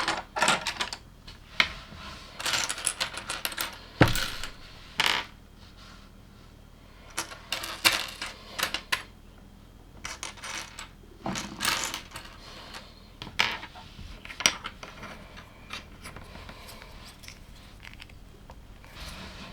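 Loose plastic LEGO pieces clattering and clicking as they are picked through and snapped together, in irregular clusters of sharp clicks that thin out and grow quieter in the second half.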